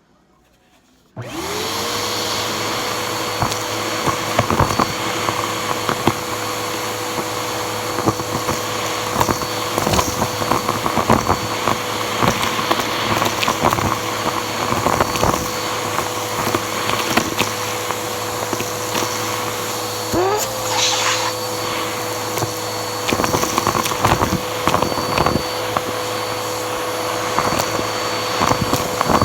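Bissell vacuum cleaner switched on about a second in, its motor whining up to a steady pitch, with scattered clicks and rattles as the hose sucks up debris. Past the middle the pitch briefly dips and recovers.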